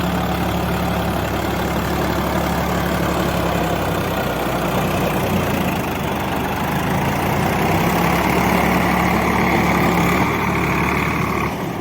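Swaraj 744 FE tractor's diesel engine running steadily under load while ploughing wet, muddy soil; the sound falls away just before the end.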